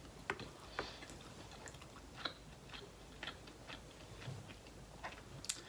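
Close-miked chewing: a person eating, with soft, irregular mouth clicks and small crunches.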